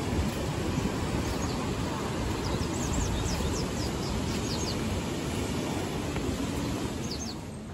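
Sagano Romantic Train's open-air car running along the track: a steady rumble of wheels and rushing wind, with a few short high bird chirps in the middle and again near the end.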